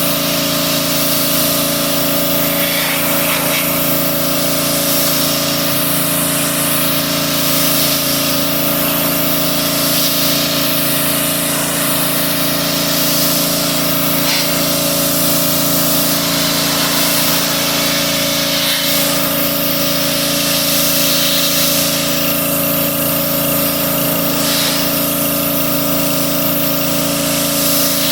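Engine-driven pressure washer running steadily, its spray hissing louder and softer as the wand sweeps across a surface.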